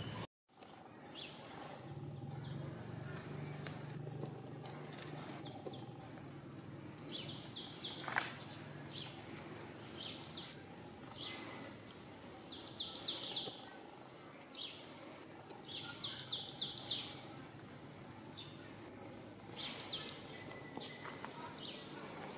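Birds chirping outdoors in short, rapid high trills about a second long, repeated every few seconds over a steady background of outdoor noise.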